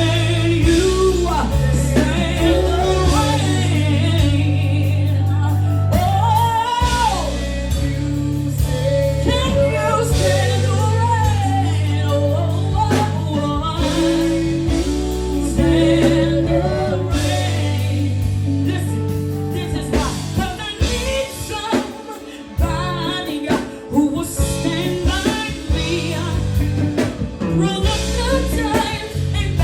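A solo voice singing a melody with long gliding notes over accompaniment with a steady bass line and drums.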